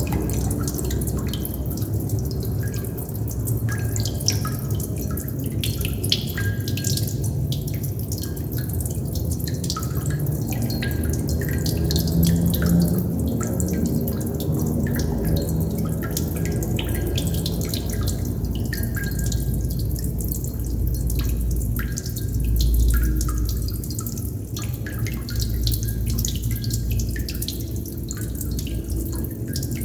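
Water droplets falling and dripping, many small sharp drips at an uneven pace, over a steady low rumble.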